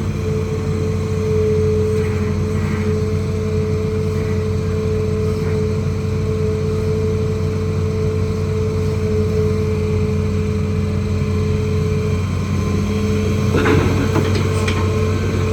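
Hitachi ZAXIS200 excavator's diesel engine running steadily, with a steady high whine over the engine note. Near the end comes a short clatter, typical of rock being scraped or struck by the bucket.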